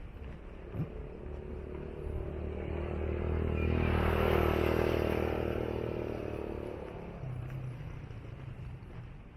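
A motor vehicle passing by. Its engine and tyre noise grow louder to a peak about halfway through, then fade away.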